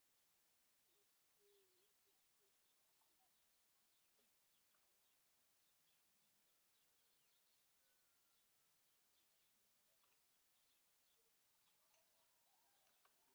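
Near silence with faint bird chirping: many short, high chirps, several a second.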